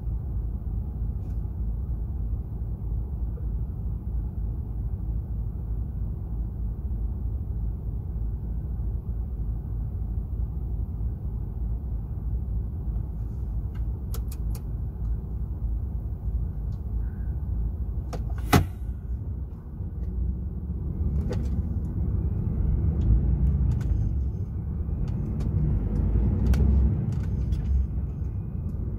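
DAF XF 480 truck's straight-six diesel running with a steady low rumble. There is a single sharp click about two-thirds of the way through, and the rumble grows heavier and uneven afterwards.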